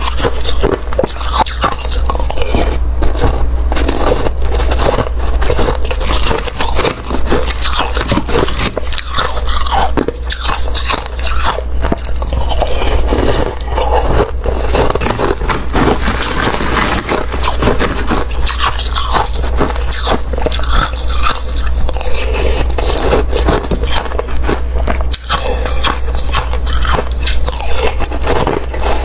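Watery, slushy ice being bitten and chewed: a dense, continuous run of wet crunching and scraping.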